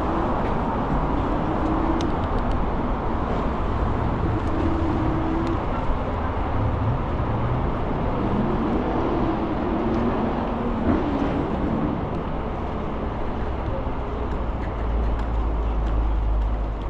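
Steady riding noise from an electric bike on the move: wind on the microphone and tyre noise, with street traffic.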